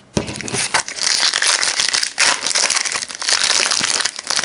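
Wrapper of a trading card pack crinkling as it is handled and opened.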